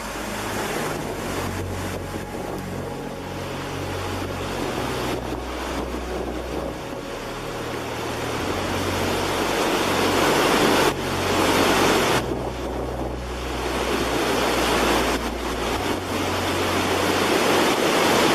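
Heavy rushing water, like crashing surf, swelling louder a little past the middle and again near the end, over a low bass line that steps between notes.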